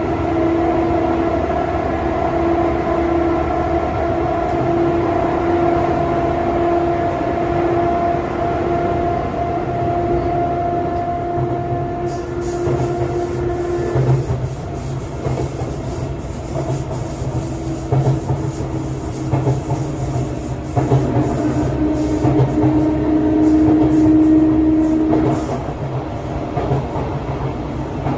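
Running sound inside a Sotetsu 9000 series electric train car at speed: a steady whine of several held tones over the rumble of the wheels. About halfway through, a hiss joins and the wheels clack over rail joints as the train comes out of the tunnel into the open.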